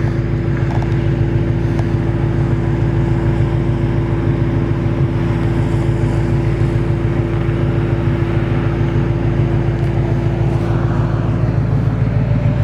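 The 2006 Chrysler 300 SRT8's 6.1-litre Hemi V8 idling steadily through an aftermarket Flowmaster exhaust.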